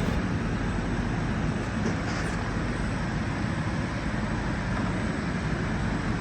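GM 5.3L V8 engine of a 2006 Yukon running steadily at idle.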